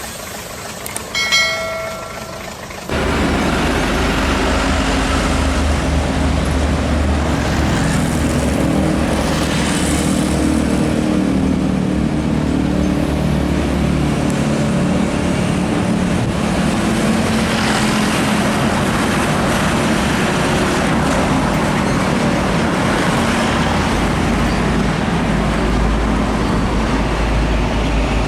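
Heavy diesel container trucks driving past in a convoy: a steady, loud engine drone with road noise and a deep rumble. It starts abruptly about three seconds in, after a quieter stretch.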